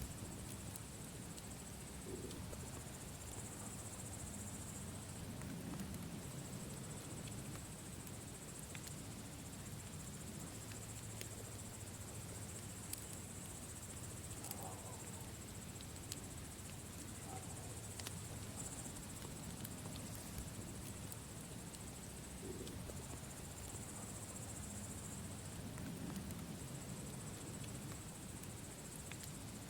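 Campfire crackling, with scattered sharp pops over a low even rumble, under a steady high insect chirring that swells and fades.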